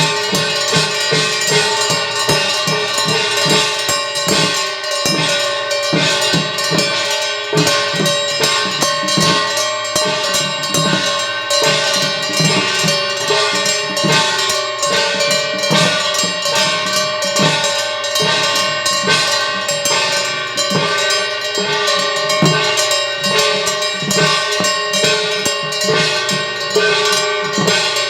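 Jeju shaman-ritual percussion ensemble (yeonmul) playing: daeyang gongs and seolsoe brass bowls ringing continuously over steady, dense beats of buk drums.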